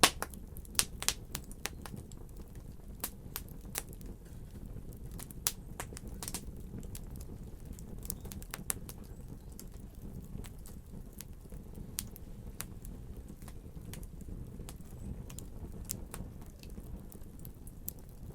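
Fire crackling: irregular sharp pops and snaps over a low steady rumble, coming thick and fast in the first few seconds and more sparsely after that.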